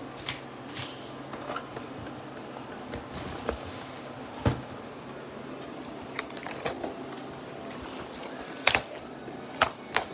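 Hands handling a plastic mini air cooler and its packaging: scattered clicks and knocks, with a few sharper clacks near the end, over a steady background hiss.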